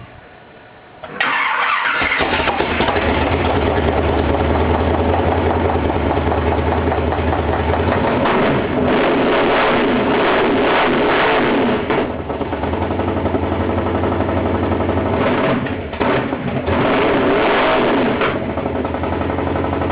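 1952 Chevrolet truck's inline-six engine firing up for the first time: it catches suddenly about a second in and then runs loud and steady, dipping briefly around twelve and sixteen seconds in.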